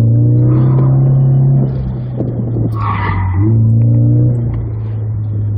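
Scion FR-S flat-four engine under hard throttle, heard from inside the cabin. It eases off about a second and a half in and pulls hard again about a second later, with tyres squealing on the course.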